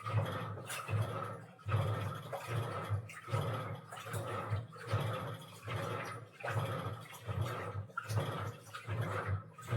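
Washing machine running its wash cycle: water sloshing and churning in the drum in repeated surges, roughly one a second.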